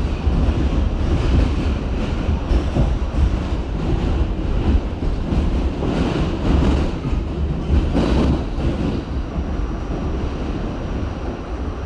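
R68 subway train running on the track: a steady rumble of wheels and motors, with two louder surges in the second half.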